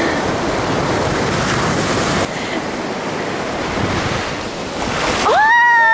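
Ocean surf washing on the shore, with wind buffeting the microphone. Near the end a single loud, drawn-out high call rises, holds and then slides down.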